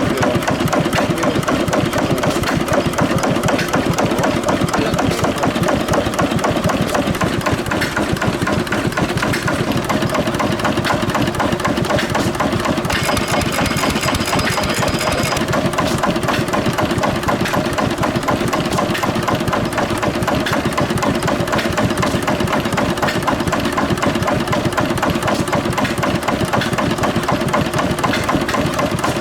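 1917 International Harvester Mogul 1 hp kerosene stationary engine running steadily, a quick, even run of firing strokes and valve-gear clatter.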